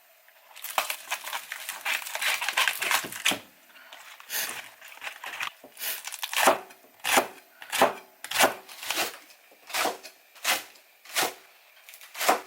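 Plastic packaging crinkling and tearing for a few seconds, then a kitchen knife chopping on a cutting board in steady strokes, about one and a half a second.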